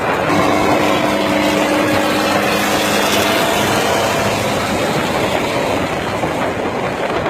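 New Holland 3630 tractor's diesel engine running steadily under load while hauling a heavily loaded trolley, with continuous rumbling road and rattling noise. A few steady tones sit in the sound for the first half.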